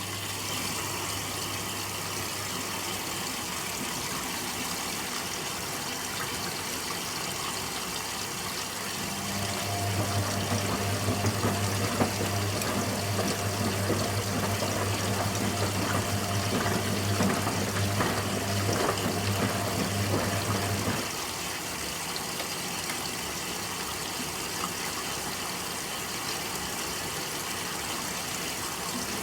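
Candy Aquamatic 100F front-loading washing machine in its final rinse, water rushing and splashing in the drum over a steady mains hum. The hum and the splashing grow louder for about ten seconds in the middle, then drop back.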